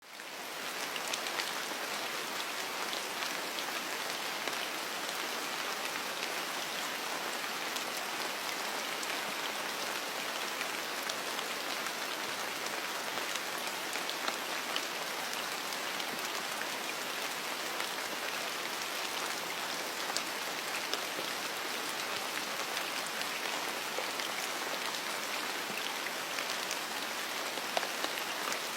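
Steady rain falling, an even hiss with many scattered individual drop taps, fading in at the start.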